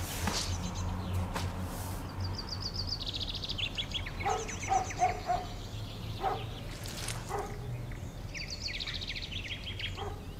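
Songbirds singing: two runs of quick repeated trill notes that step down in pitch, over a low steady hum.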